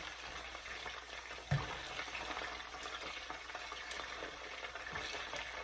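Skin-on chicken thighs and wings frying in hot oil in a pan, a steady sizzle, with one dull knock about a second and a half in.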